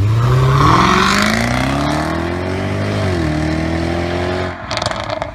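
Jaguar F-Type SVR's supercharged 5.0-litre V8 accelerating hard from a standstill, the revs climbing, with a quick dip in pitch about three seconds in as it changes up a gear. Near the end the engine note drops away, with a short burst of crackling.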